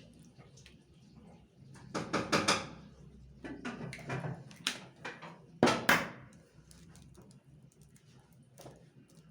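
Kitchen handling sounds: two short clusters of knocks and clatter from bowls and utensils, about two seconds in and again about six seconds in.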